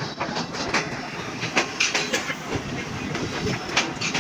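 Passenger train wheels clattering over the rails, an uneven run of sharp clicks and knocks.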